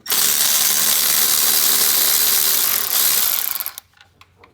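Impact wrench hammering continuously as it loosens the exhaust downpipe fasteners, then winding down and stopping about three and a half seconds in.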